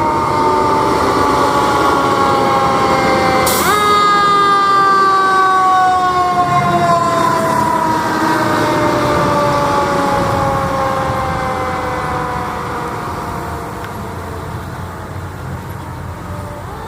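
Fire truck siren sounding as the truck passes, its pitch sliding slowly downward. About four seconds in it jumps sharply back up with a brief sharp burst, then slides down again and fades over the last few seconds. A low engine rumble runs underneath.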